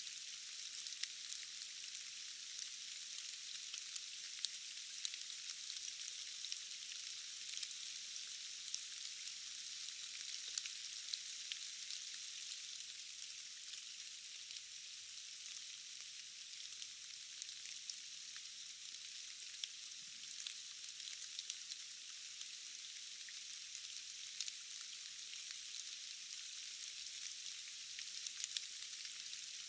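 Steady rain: an even, high hiss with many small, sharp drop ticks scattered through it and no low rumble beneath.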